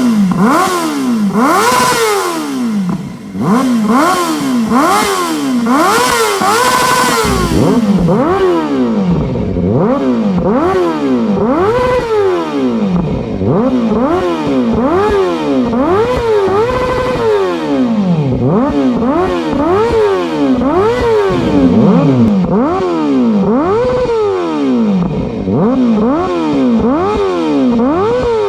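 2023 Kawasaki ZX-4RR's inline-four engine revved again and again through a slip-on exhaust with a black knight muffler, the pitch rising and falling about once a second and now and then held briefly at the top.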